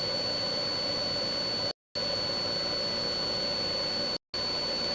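Steady turbine whine and rotor drone of a police helicopter's cabin, heard through the crew intercom, with a constant high whine; the audio cuts out completely twice, briefly.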